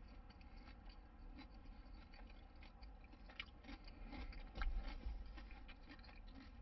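A person chewing a mouthful of glazed-donut fried chicken sandwich: faint, irregular wet mouth clicks, a little louder about four and a half seconds in.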